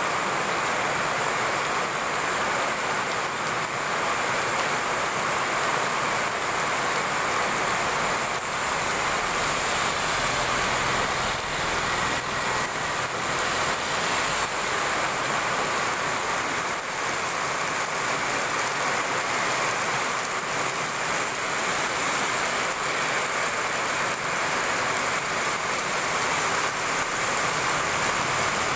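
Heavy rain pouring steadily onto a road and the vegetation around it, an unbroken hiss. A car passes on the wet road about halfway through, its tyres swishing through the water.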